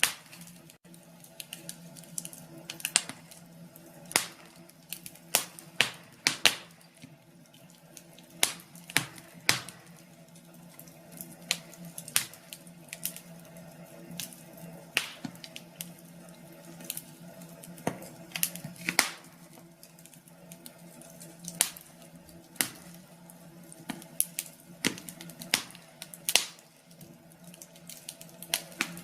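Wood fire crackling, with irregular sharp pops every second or so over a low steady hum.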